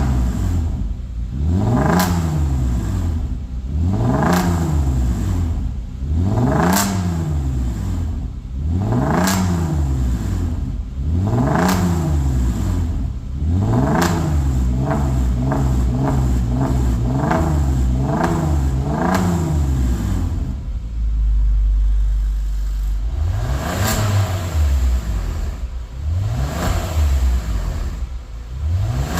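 Genesis EQ900's 3.8 V6 free-revving through a custom variable-valve exhaust: a series of revs, each rising and falling, every couple of seconds, then a quick run of short throttle blips. After that the engine drops back to a low idle rumble for a few seconds before revving again.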